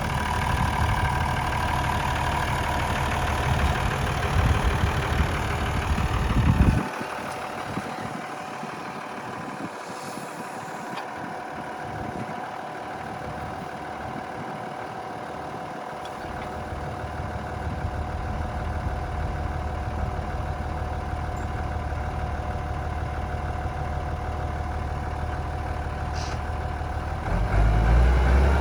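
Ford 8210 tractor's six-cylinder diesel engine running steadily while pulling harrows. The deep rumble drops away sharply about seven seconds in, builds back gradually, and comes in louder again near the end.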